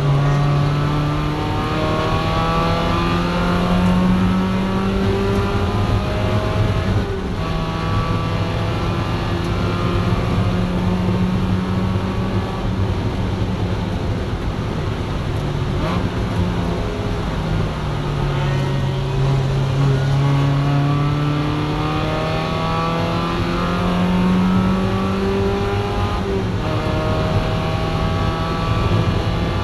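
Mazda Miata race car's four-cylinder engine heard from inside the cabin, revving up under full throttle through the gears. It upshifts about seven seconds in and again near the end, with the revs sagging and climbing again in between. A steady hiss of wet road and spray runs underneath.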